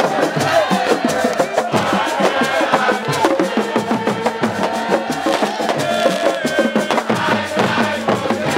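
Fast, dense drumming with many sharp strokes, under voices chanting and singing together.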